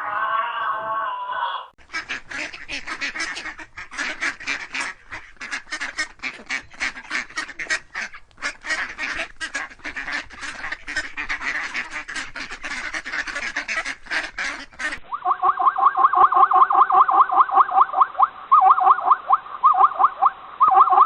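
Ducks quacking in a dense run of rapid overlapping calls, after a brief wavering tone at the start. About fifteen seconds in, this gives way to frogs croaking in fast pulsing trills.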